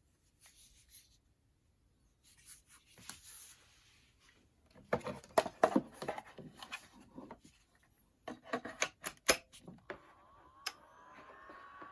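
Sharp clicks and rattles of hard plastic parts being handled and snapped together, in bursts. A faint whine with gliding tones starts near the end.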